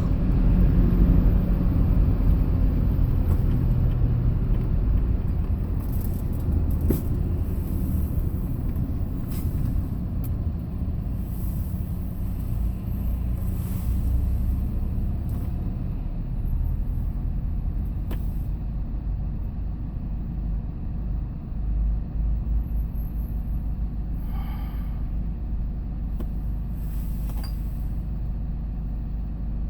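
Hyundai Porter II box truck driving, its engine and road noise making a steady low rumble.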